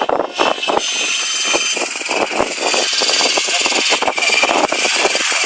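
Electric GAUI X5 RC helicopter in flight, its motor and rotor blades giving a steady high whine, with wind buffeting the microphone.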